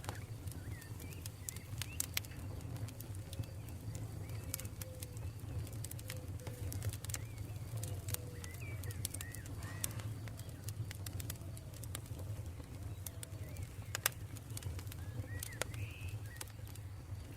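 Campfire crackling: scattered sharp pops over a low steady rumble, with one louder pop about fourteen seconds in. Birds call faintly in the background, including a run of soft low calls in the middle.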